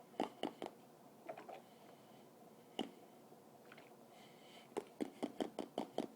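Wet clicks and pops made with water held in the mouth: three quick pops at the start, a few softer ones, a single pop, then a fast run of about seven near the end.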